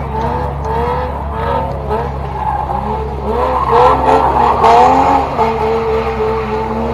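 Car engine revving hard, its pitch swinging up and down about twice a second, with tyre squeal, as a car is driven in a drift or burnout display.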